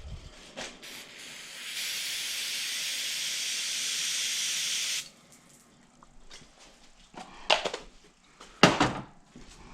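Aerosol carburetor cleaner sprayed into a small-engine carburetor's passages, one steady hiss of about three seconds that cuts off abruptly. A few light knocks of handling the part follow.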